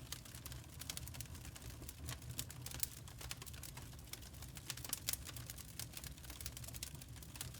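Wood fire crackling, with many sharp irregular pops and snaps over a low steady rumble.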